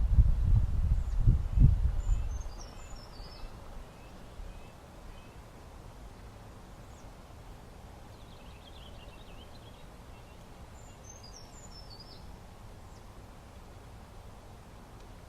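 A low, noisy rumble that fades out over the first few seconds, then a quiet outdoor background in which small birds chirp. Their calls come in two short clusters of high, falling notes, with a fainter twitter between them.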